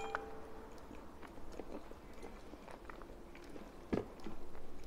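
A person chewing soft spinach-and-bread dumplings (strozzapreti), with small wet mouth clicks. A metal fork knocks once on a ceramic bowl about four seconds in.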